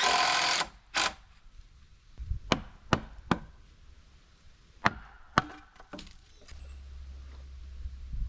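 Wooden knocks and a scrape as 2x8 stair treads are handled and set in place: a short scraping rustle at the start, then about six sharp, separate knocks of board on board.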